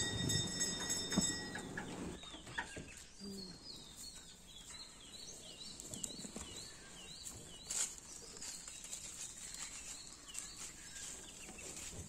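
A bird calling over and over with short, high, falling notes, a few a second, and a single sharp tap partway through.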